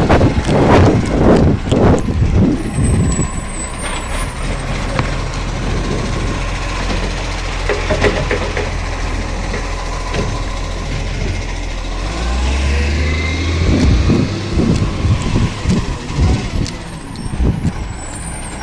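Garbage truck working a green-waste bin pickup: a quick run of clanks and bangs in the first few seconds, then the engine running steadily. About twelve seconds in the engine revs up for a couple of seconds, and more knocks follow toward the end.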